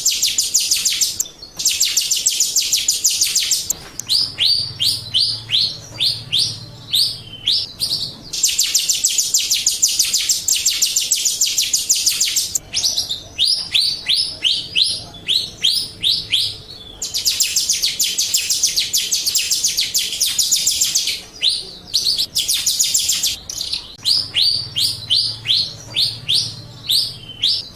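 Jalak Rio starling singing: long blocks of rapid, buzzy trilling alternate with runs of short downward-sliding whistles, three or four a second, and the phrases repeat several times. It is a lure recording (pancingan) meant to set caged Jalak Rio singing in reply.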